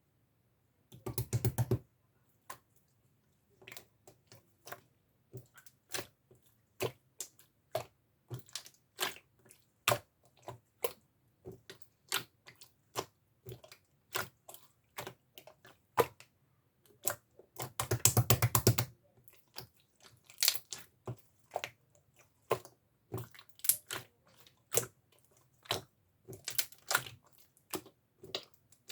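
Clear slime with a strawberry topping being squeezed and pressed by hand: a string of sharp, irregular wet clicks and pops. Two rapid crackling runs stand out, about a second in and about eighteen seconds in.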